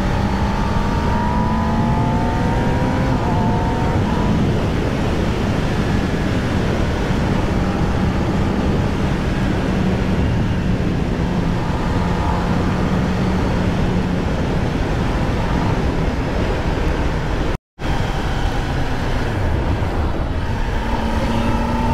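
Kawasaki ZX-10R superbike's inline-four engine running steadily under way on its stock exhaust, under a dense rush of wind and road noise, with its pitch rising a little near the start and again near the end. The sound cuts out for a split second about three-quarters of the way through.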